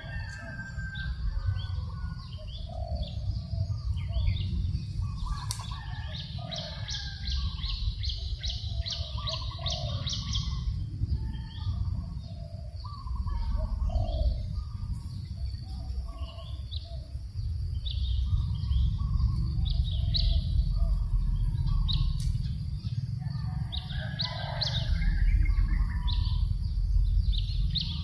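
Several birds chirping and calling, with a quick run of high chirps, about three a second, from about six to ten seconds in. A steady low rumble of breeze on the microphone runs underneath.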